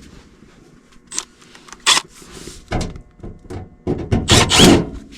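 Sheet-metal air-handler cabinet panel being handled and fitted: a few separate scrapes and knocks, then a louder cluster of metal scraping and clanking near the end.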